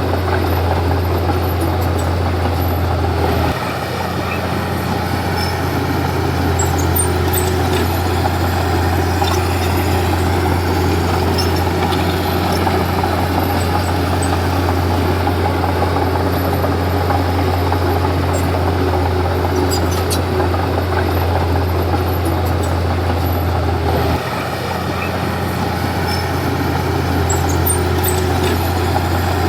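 Komatsu D31P bulldozer's diesel engine running steadily with a deep, constant drone, dipping briefly in level about three and a half seconds in and again a few seconds before the end.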